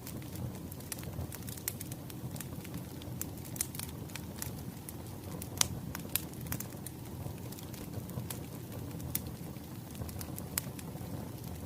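Wood fire crackling: a steady low rumble of burning logs with scattered sharp pops and snaps, one louder pop about halfway through.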